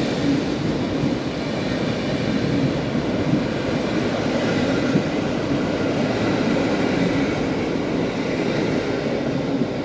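Train running through a railway station, a loud steady rumble of wheels on rails with faint steady higher tones over it.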